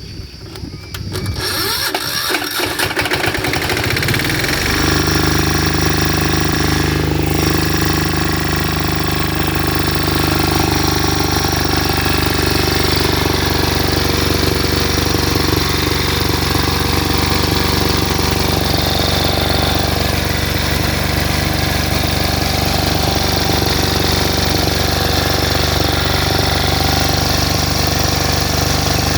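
Kirloskar 5 kVA high-speed generator engine starting: a few seconds of uneven cranking and catching, then about four seconds in it settles into a steady, even run.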